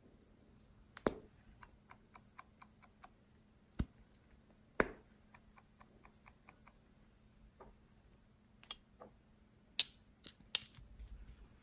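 Slime being pressed and worked by hand, giving scattered sharp clicks and pops of trapped air. A few pops are louder, and two quick runs of light ticks come at about four or five a second.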